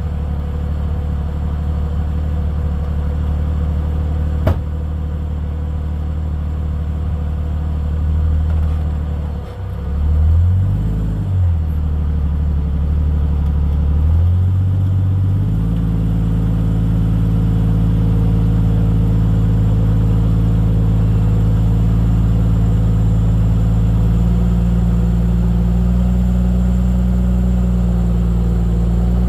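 Jeep Cherokee XJ engine running at low speed while rock crawling, with one sharp knock about four seconds in. Its pitch dips and rises briefly around ten seconds in, then steps up to a higher, steady speed about halfway through and again near the end.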